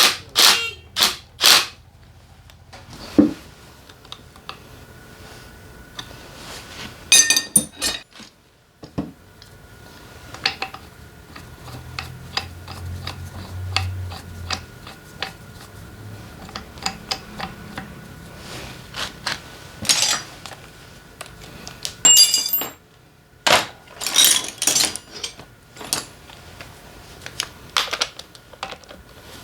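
Hand tools and metal engine parts clicking, knocking and clinking during motorcycle engine disassembly, with a few parts ringing briefly when set down or struck.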